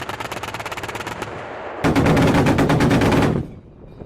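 Twin 35 mm Oerlikon autocannons of a Flakpanzer Gepard firing in rapid bursts. One burst ends about a second and a half in; a second, louder burst starts about two seconds in and cuts off suddenly after about a second and a half.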